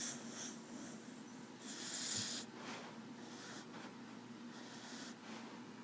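Sleeping dog snoring softly: a breathy exhale about two seconds in, then fainter breaths.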